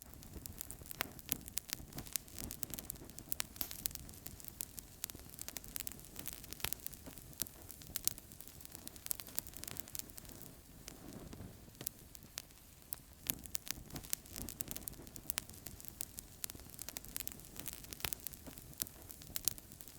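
Wood fire crackling in a fireplace: frequent sharp pops and snaps over a steady low rush and hiss of the flames.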